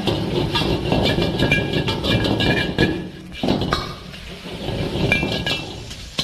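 A metal spatula scraping and clinking against a pan while vegetables are stir-fried, with short ringing clanks over a steady frying noise. There is a brief lull a little past halfway.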